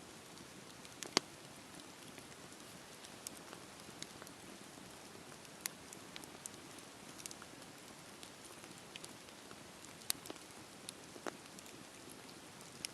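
Campfire burning: a steady soft hiss with scattered, irregular crackles and pops of the wood, the sharpest pop about a second in and another late on.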